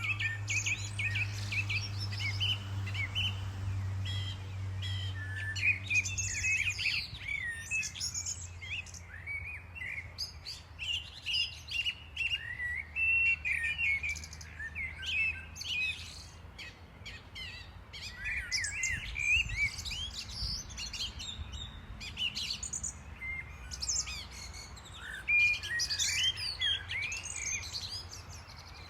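Many small birds chirping and twittering, with short calls and trills coming thick and fast. A low steady hum sounds underneath during the first several seconds, then fades out.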